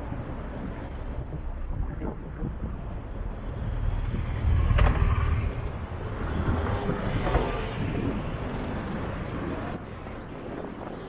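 City road traffic passing close by, a steady low rumble of engines and tyres that swells as vehicles go past, loudest about four to five seconds in.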